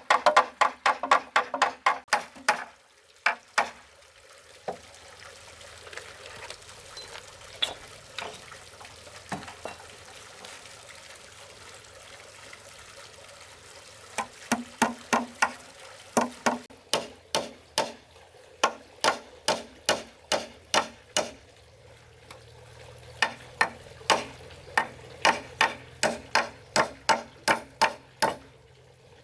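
Hammer driving nails into wooden framing: rapid runs of ringing strikes, about three a second. A few seconds in the hammering stops and gives way to steady scraping or hissing noise, then starts again about halfway through.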